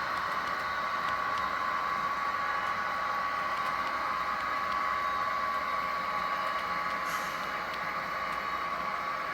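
S scale model train running on its track: a steady motor whine with faint scattered ticks, and a brief hiss about seven seconds in.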